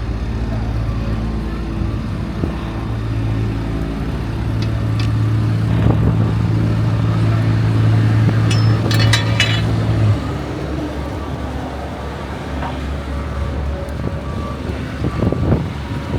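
A motor vehicle's engine running steadily close by, a low even hum that stops abruptly about ten seconds in, over city street noise.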